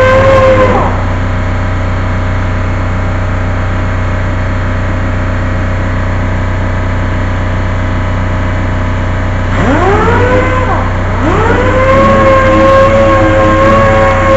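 A handheld power tool's motor whining at a steady high pitch, winding down about a second in, then spinning up twice near the end and running steadily again, over a constant low hum.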